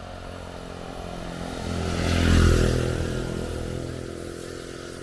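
A motorbike passes by on the road, its engine growing louder to a peak about halfway through and then fading away.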